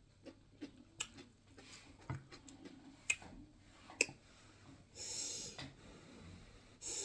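Close-up eating sounds: chewing with scattered short, wet mouth clicks, and a brief hissing burst about five seconds in.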